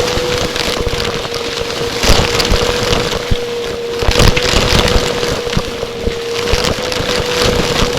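Vacuum cleaner running close up: a steady motor whine under a constant rush of air, with irregular crackling and knocking throughout.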